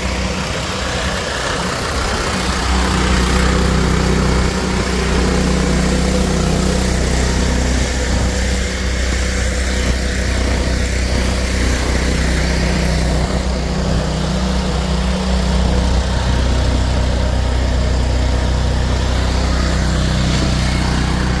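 Engine of a snow-plowing machine running steadily, with a low, even hum.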